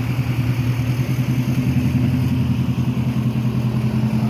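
Pickup truck engine idling steadily, a low even hum with a fast regular pulse.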